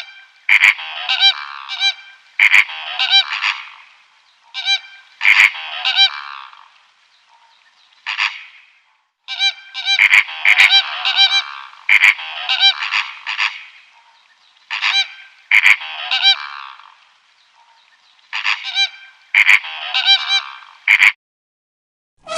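Geese honking: loud, repeated calls in clusters of several honks every couple of seconds, stopping shortly before the end.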